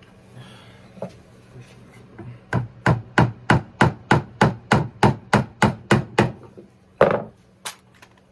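A hammer tapping tiny nails into hinge hardware on a wooden birdhouse: a quick, even run of about a dozen taps, about three a second, then one heavier knock and a sharp click.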